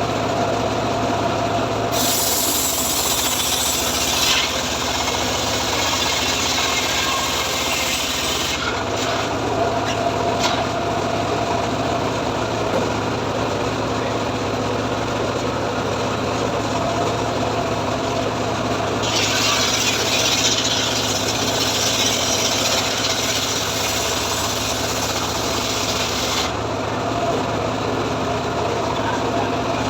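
Homemade circular saw rig cutting through sengon logs, with two long cuts of about six to seven seconds each: a loud high hiss of the blade in the wood over the steady hum of the saw's drive.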